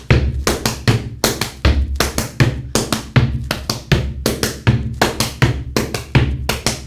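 Gumboot dance percussion: hands slapping boots and legs and feet stamping on a platform in a fast, steady rhythm of about four strikes a second, some strikes landing with a deep thud.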